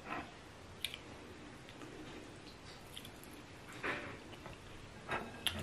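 Quiet chewing and mouth sounds of a person eating eba with egusi soup, with a few short soft clicks and squishes as the eba is worked by hand, one a little louder about four seconds in.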